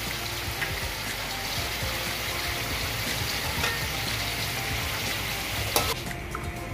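Chicken pieces and ginger-garlic paste frying in hot oil over a full flame: a steady sizzle that cuts off with a click near the end.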